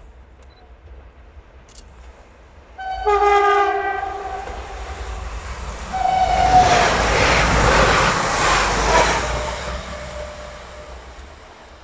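Train sounding its horn, a chord of several tones for over a second, then a shorter second blast as it comes by. The wheel and rail noise swells to a peak and then fades as it passes.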